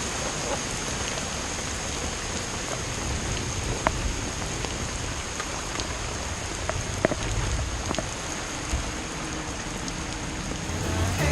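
Steady rain falling, an even hiss with scattered sharp ticks of single drops striking close by, over a low rumble.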